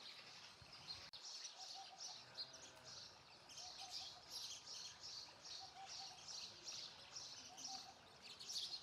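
Sparrows chirping faintly: a steady run of short, repeated chirps, about two to three a second.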